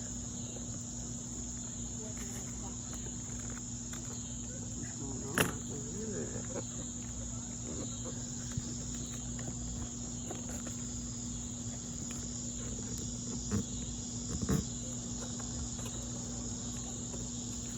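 Steady high-pitched chorus of crickets, with a few light knocks: a sharp one about five seconds in and two more near the end.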